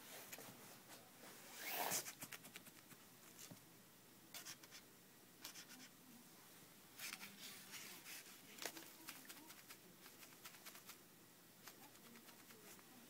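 Faint, intermittent scratching and rustling with small clicks, a pet moving about in a laundry basket; the loudest scrape comes about two seconds in.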